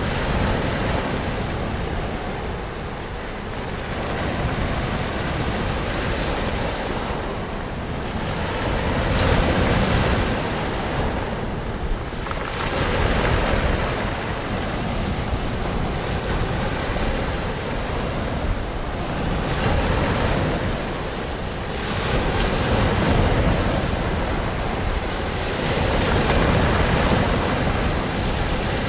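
Ocean surf: waves surging and washing in continuously, the sound swelling and easing every few seconds.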